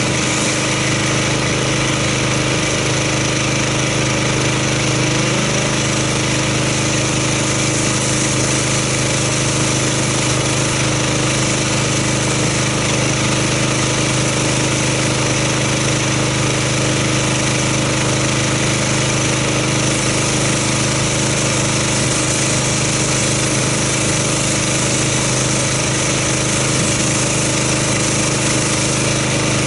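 Gas pressure washer's engine running steadily while its spray rinses snow foam off a car.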